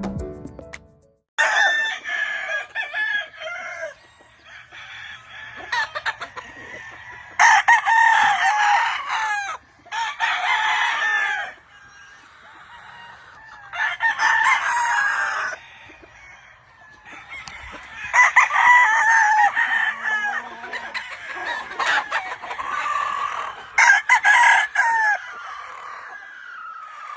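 Gamefowl roosters crowing, about seven crows of one to two and a half seconds each, spread out with short quieter gaps between them.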